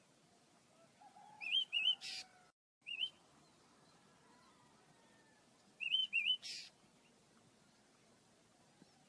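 Small pet bird calling: two quick rising-and-falling chirps followed by a short harsh rasp. The phrase comes twice, about four and a half seconds apart.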